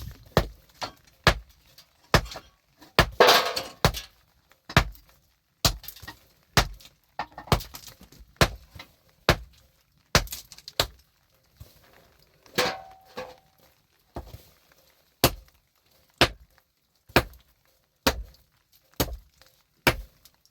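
A hand tool striking hard material in a steady series of sharp blows, about one a second, with a longer crunching crash about three seconds in.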